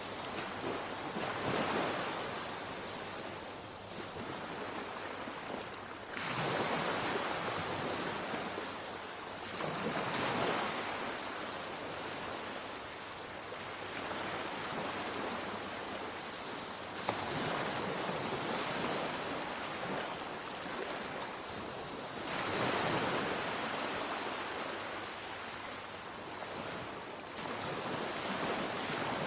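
Sea waves breaking and washing on the shore, swelling about every four to six seconds in a steady surf.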